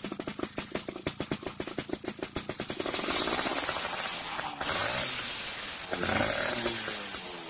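Yamaha F1ZR two-stroke single-cylinder engine through a racing exhaust, idling with an even, rapid popping beat, then revved about three seconds in, rising and falling several times.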